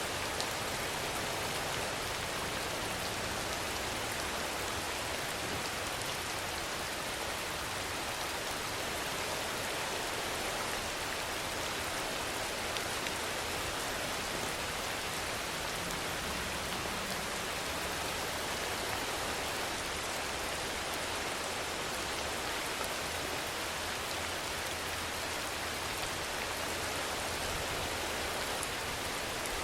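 Steady rainfall: an even, unbroken hiss at a constant level, with no swells or single sounds standing out.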